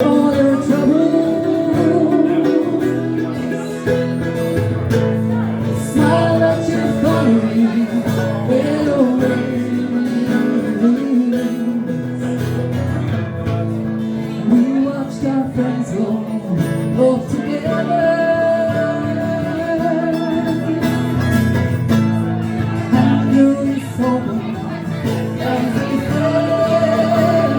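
Live acoustic music: guitar accompaniment under a sustained, wavering melody line, an instrumental introduction before any words are sung.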